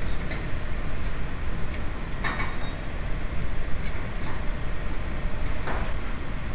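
Engine running steadily with a low rumble, with a brief rattle about two seconds in and again near the end.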